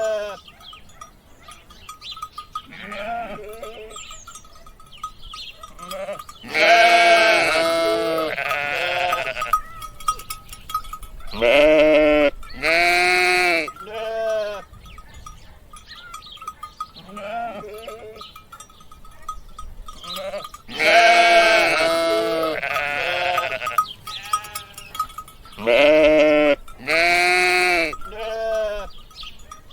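Sheep bleating over and over: a string of wavering calls, each under a second long, some loud and close and others fainter, as from several animals in a flock.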